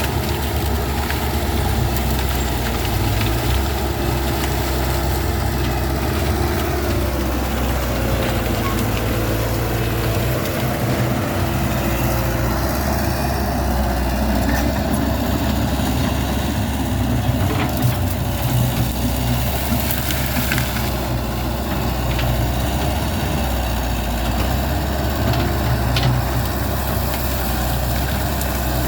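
Caterpillar 312D excavator's diesel engine running steadily under working load, its note shifting a few times as the hydraulics take load, with a few faint knocks.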